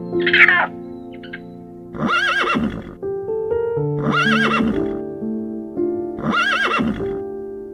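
Horse whinnying three times, about two seconds apart, each call the same short arched neigh, over steady piano music. A short, loud, high call comes just after the start.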